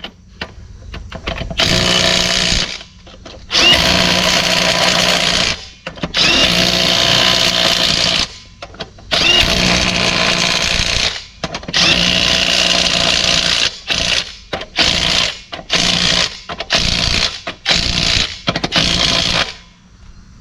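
Impact wrench running lug nuts onto a wheel: several runs of a second or two each, then a quick string of short bursts as the nuts are hammered tight.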